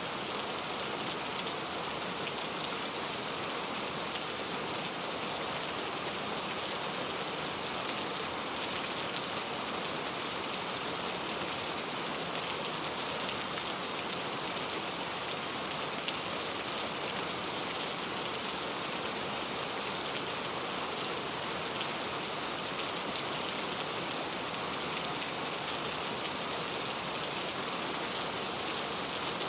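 Steady rainfall, with the patter of many drops hitting a surface and a constant hiss.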